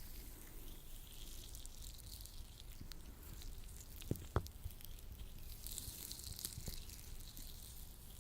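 Lotion-coated latex gloves rubbed and pressed together, giving a fine sticky crackle with scattered small pops and a pair of sharper snaps about four seconds in.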